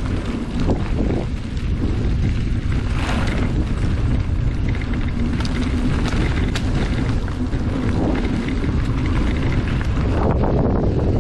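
Wind buffeting the microphone during a ride along a trail, over a steady low rumble of rolling over the ground, with a few short clicks or knocks.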